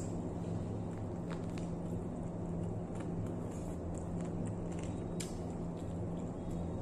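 Eating sounds from biting and chewing chicken held in the fingers: scattered small wet clicks and mouth smacks over a steady low hum.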